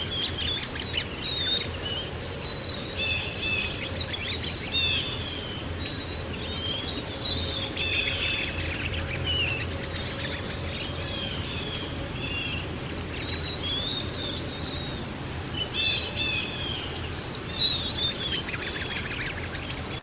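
Several songbirds chirping and singing in overlapping quick phrases, over a steady low background wash of noise.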